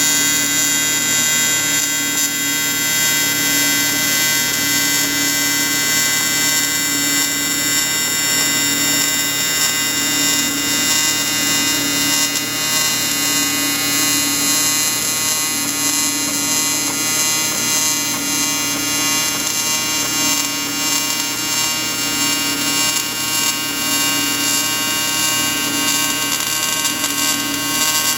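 TIG welding arc buzzing steadily. A lower tone in the buzz swells and fades about every two seconds.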